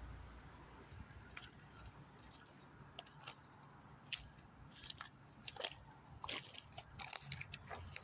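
Steady, high-pitched late-summer insect chorus, with scattered short crackles and clicks over it, strongest in the second half.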